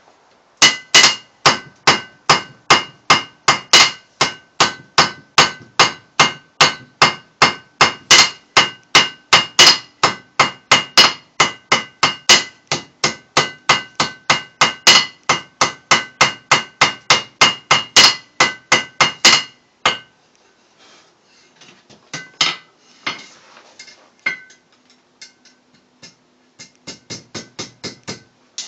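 Blacksmith's hammer striking on an anvil at a steady pace, about three blows a second, each leaving a short metallic ring. The hammering stops about two-thirds of the way in. A few scattered blows follow, then a quick run of lighter taps near the end.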